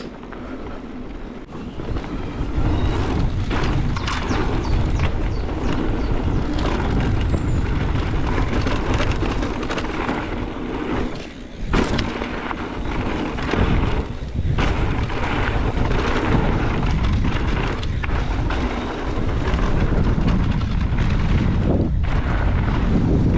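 Wind rushing over the camera microphone as a mountain bike is ridden fast down a dirt trail: a dense low rumble, broken by frequent clicks and knocks from the bike going over rough ground.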